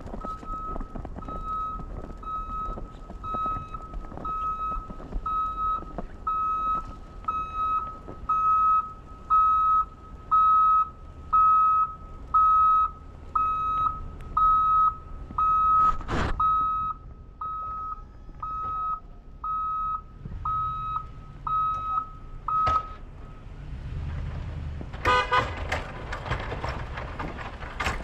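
Vehicle reversing alarm beeping steadily on one high note, a bit more than once a second, then stopping near the end. A sharp knock sounds about halfway through.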